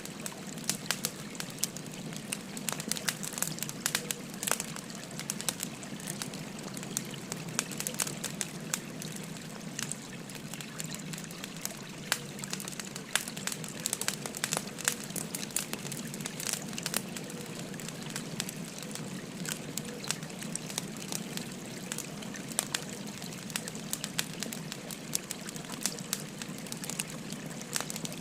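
Wood fire crackling, with frequent sharp pops and snaps, over the steady rush of a flowing stream.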